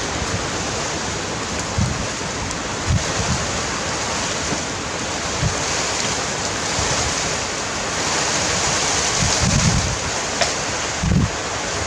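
High wind rushing steadily, with gusts buffeting the microphone in irregular low rumbles.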